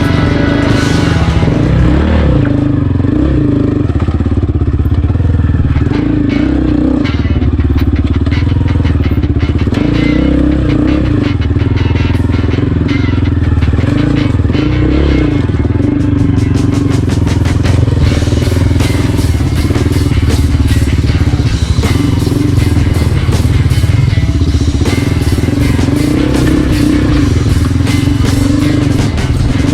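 Trail motorcycle engine running steadily while riding, with background music mixed over it.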